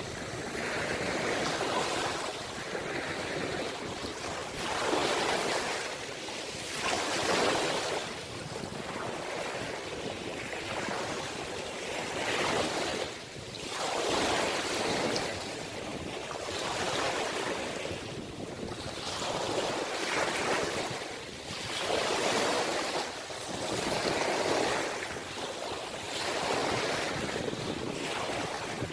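Sea waves breaking and washing on the shore, a steady rush of surf swelling and easing every second or two.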